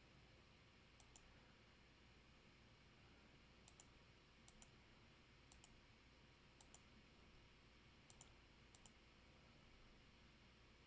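Faint computer mouse clicks, seven quick pairs spaced irregularly, over near silence.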